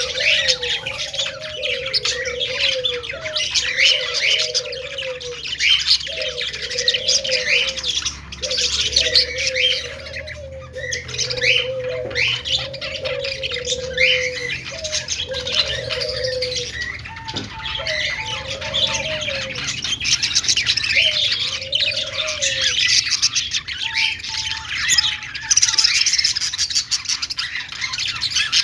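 A group of budgerigars chattering and warbling without pause, a dense run of high chirps and squawks. Beneath it, a lower rounded note repeats about once a second and stops about two-thirds of the way through.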